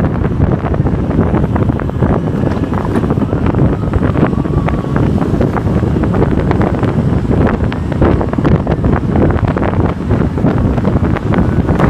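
Strong wind buffeting the microphone, a loud, rough rumble with crackling.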